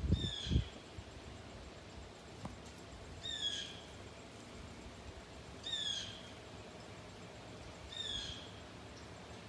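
A bird calling four times, about every two and a half seconds, each call a short note that slides downward. A few low thumps at the very start.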